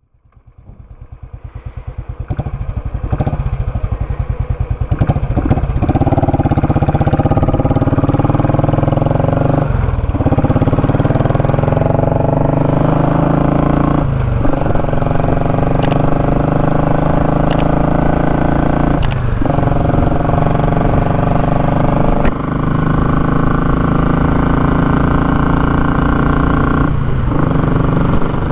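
Royal Enfield Classic 500's single-cylinder engine through a short, open muffler, building up from quiet and then accelerating through the gears. The pitch climbs in each gear and drops briefly at about four gear changes.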